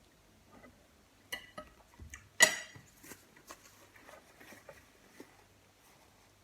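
Cutlery clinking and tapping on a plate while eating, with one loud ringing clink about two and a half seconds in and lighter taps and clicks around it.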